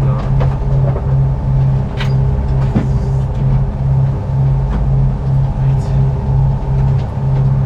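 Sailboat's engine running steadily under way: a low drone that throbs in an even, regular beat.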